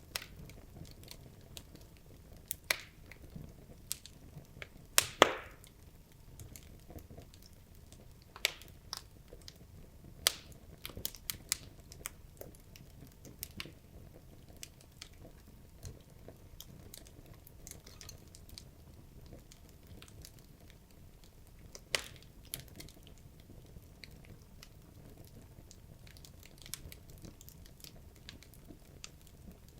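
Wood logs burning in a fireplace, crackling: irregular sharp pops over a faint low rumble of the flames, with the loudest burst of pops about five seconds in.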